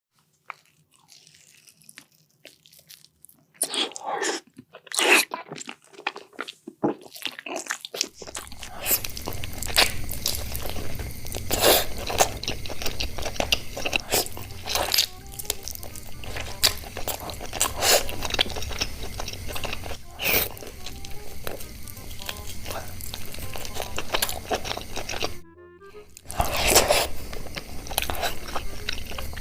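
Close-miked crunching bites and chewing of food: a few scattered crunches at first, then dense, continuous crunching and chewing from about a quarter of the way in, with a brief pause near the end.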